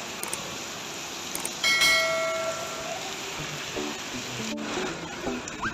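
Steady hiss of rain. About one and a half seconds in, a single bell-like chime rings out and fades over about a second.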